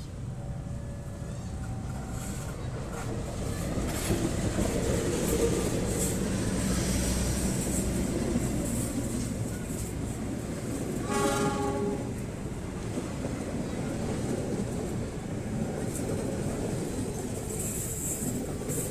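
A train running through the station, a steady rumble of wheels on rails that grows louder about four seconds in. A train horn sounds once for about a second, around eleven seconds in.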